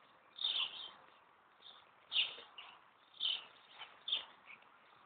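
Short high chirps at irregular intervals, about one a second, from a small bird calling, with no engine running.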